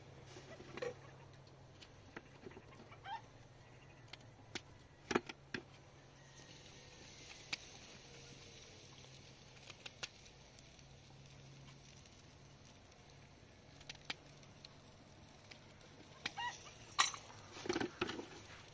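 A few short bird calls among scattered light clicks and knocks, with a cluster of louder calls and knocks near the end.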